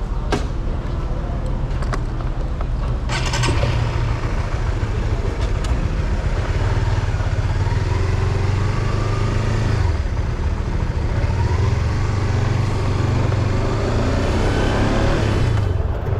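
Vehicle engine running with road noise while driving uphill, its pitch rising and falling slowly as it revs, with a few sharp clicks about three seconds in.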